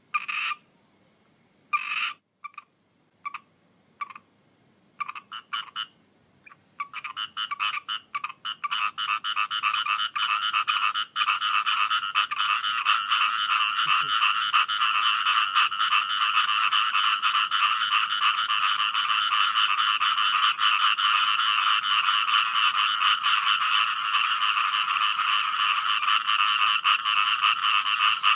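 Frogs calling: a few separate short croaks at first, then from about seven seconds in a dense chorus of rapid croaks that builds and holds steady.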